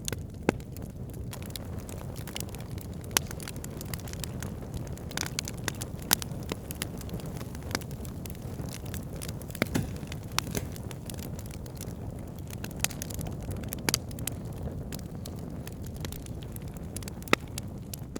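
Wood campfire burning: a steady low rush under irregular sharp crackles and pops from the burning wood, with a dozen or so louder pops scattered through.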